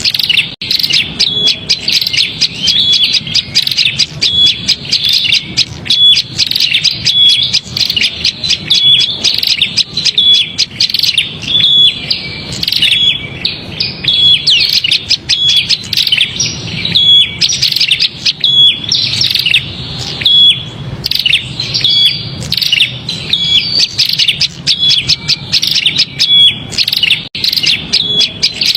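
Prinia (prenjak) giving its agitated, rapid chattering call, the 'ribut' call used as a lure for small birds. It is a dense, unbroken run of high chirps with a short clear note about once a second.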